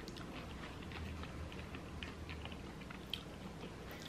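Faint mouth-close chewing of seasoned curly fries, with scattered small wet clicks and crackles, one a little sharper about three seconds in.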